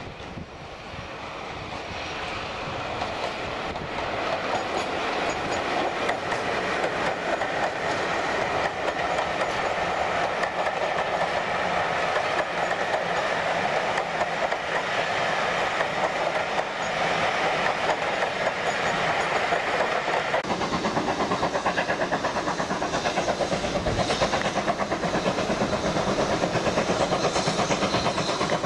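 A heritage passenger train passes, a BR Class 25 diesel with coaches and a BR Standard 9F steam locomotive. Its running noise builds over the first few seconds, with the wheels clicking over the rail joints. After a sudden change about twenty seconds in, a steam locomotive is heard working, with a steady pulsing rhythm.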